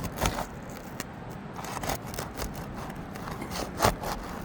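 An asphalt roof shingle being pried up and lifted, giving scattered scrapes and sharp cracks, the loudest a little before four seconds in. The shingle is cracking and breaking through as it is removed, the sign of a brittle shingle that no longer bends.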